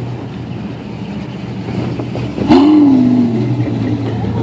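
Car engine running at idle with a steady low hum, then a sudden loud rev about two and a half seconds in that rises and falls back over about a second.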